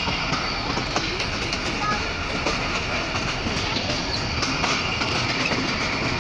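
Pakistan Railways train running along the track with a steady rumble of wheels on rails.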